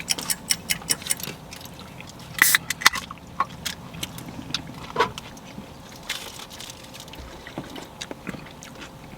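Someone eating tacos: chewing and handling food, scattered small clicks and wet smacks, with a few sharper ones in the first half, over a faint steady low hum.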